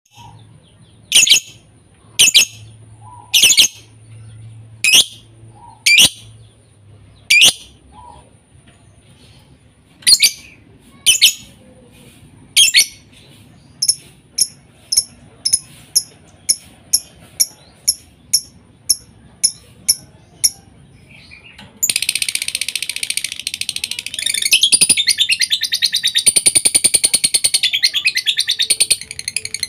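Lovebird calling: loud, shrill single calls about once a second, then a quicker run of shorter chips about two a second. About 22 seconds in, the calls turn into a continuous, rapid chattering trill, the sustained 'gacor' song of a lovebird in full voice.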